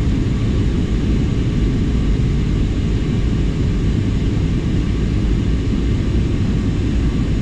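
Steady cabin noise of a Cebu Pacific airliner heard from a passenger seat: a constant deep rumble of engines and airflow, with no change in pitch. It cuts off abruptly at the end.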